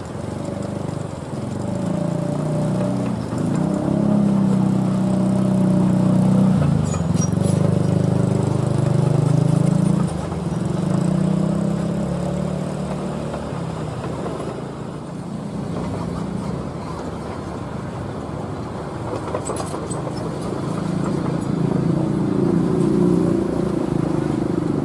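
Heavy diesel engine running under varying load, its pitch and loudness rising and falling, strongest from about four to ten seconds in.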